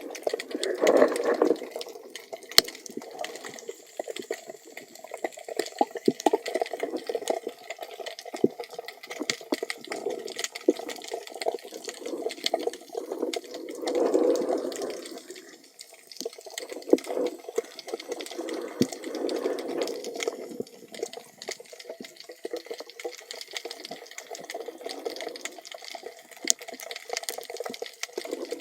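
Water heard from underwater: a steady rush full of crackling clicks, with a few louder swells of rushing water.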